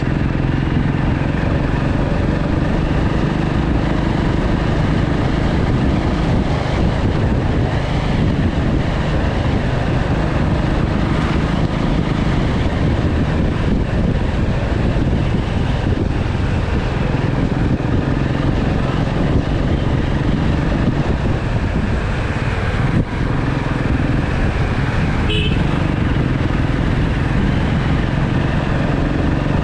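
Motorcycle engine running steadily under way, with road noise. A short high-pitched tone sounds once near the end.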